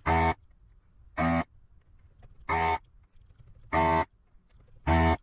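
Electronic buzzer alarm sounding a harsh, short buzz over and over, five times about 1.25 seconds apart.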